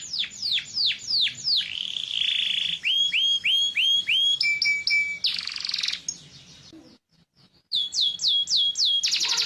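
Domestic canary singing: quick runs of the same downward-sweeping whistled note repeated several times a second, switching to a new repeated phrase every second or two. The song breaks off briefly about seven seconds in, then resumes with more falling notes and a fast rattling trill near the end.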